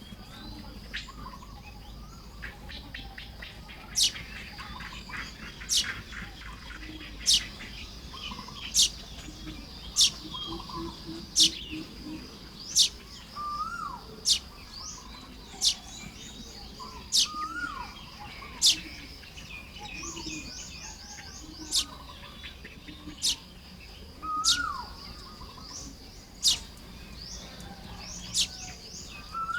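Common baya weavers calling at their nesting colony. Sharp, high, falling notes come about every second and a half, mixed with buzzy chattering trills and a few short rising-then-falling whistles.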